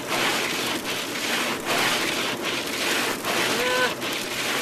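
Ice pellets and freezing rain pelting a car's roof and windshield, heard from inside the car: a dense, steady patter that swells and dips.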